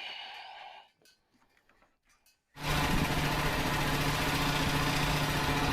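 A small gasoline engine running steadily with a strong low hum, coming in abruptly about two and a half seconds in after a nearly quiet stretch with a few light clicks.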